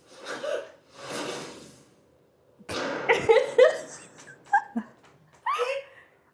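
A person's heavy, ragged breathing: three long breaths, then strained gasps and grunts with a few short rising-and-falling vocal cries near the end.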